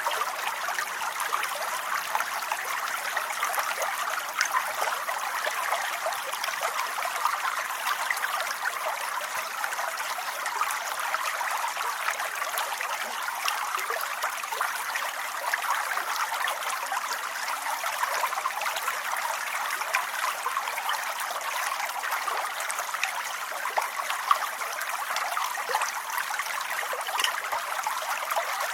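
Steady rain falling: an even hiss of many drops with a fine, constant patter.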